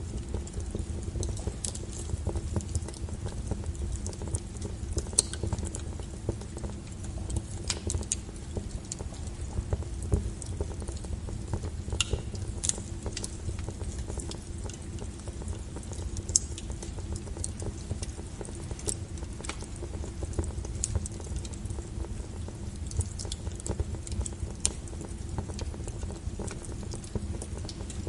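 Wood fire burning, with a low steady rumble and frequent irregular sharp crackles and pops, a few of them louder.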